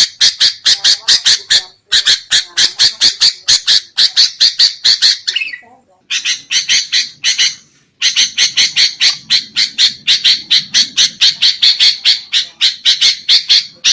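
Sooty-headed bulbul giving its agitated, harsh chattering call, a rapid string of about five or six rasping notes a second in runs broken by brief pauses. This excited 'ribut' chatter is the kind used as a lure call to draw in wild bulbuls.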